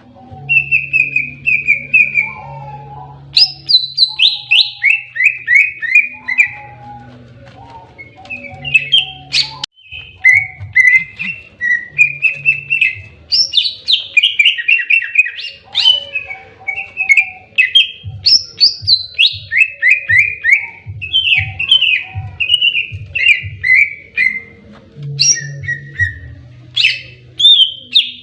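A greater green leafbird (cucak ijo) singing in its aggressive fighting mode: loud, quick runs of descending chirps, repeated over and over with short sharp notes in between.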